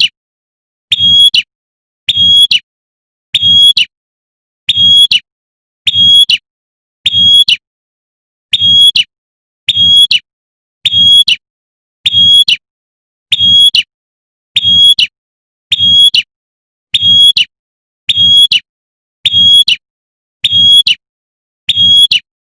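Female prenjak (prinia) giving its sharp 'tembakan' call to attract a male: a short high call repeated evenly about every 1.2 seconds, with dead silence between calls.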